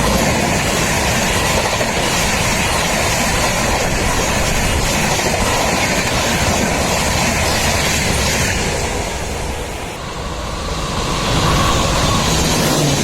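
Passenger train passing close at speed, a loud steady rush of wheels on rail. The noise eases briefly about ten seconds in, then rises again.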